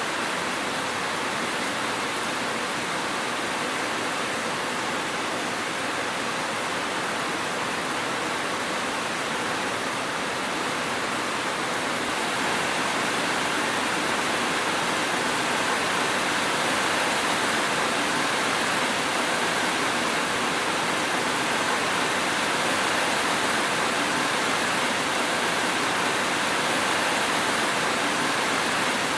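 Steady rainfall: an even hiss of falling rain with no thunder, getting slightly louder about twelve seconds in.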